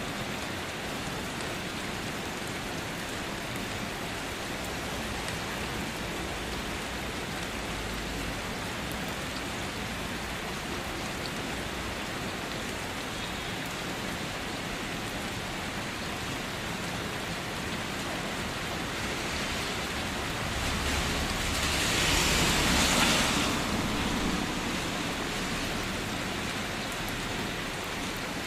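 Steady rain falling. About two-thirds of the way in, a louder rush of noise swells for a few seconds and then fades.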